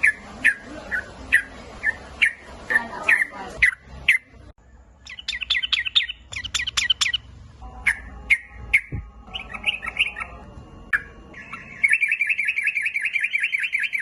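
Yellow-vented bulbul calling: sharp chirps repeated about twice a second, bursts of rapid chatter a few seconds in, and a fast, even trill near the end.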